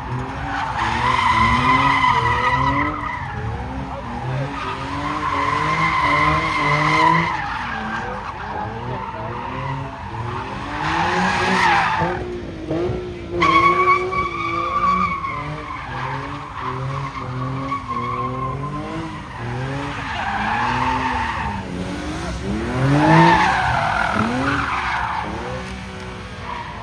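A car spinning donuts: its engine revs up and down while the tyres squeal in repeated long bursts, about half a dozen times.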